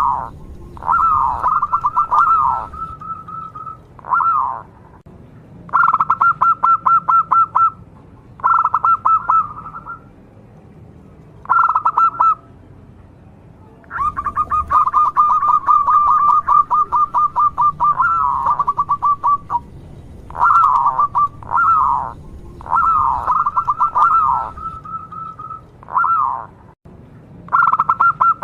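Zebra dove (local perkutut) singing: phrase after phrase of rapid, stuttering cooing trills, each a second or two long, with one long drawn-out phrase about halfway through.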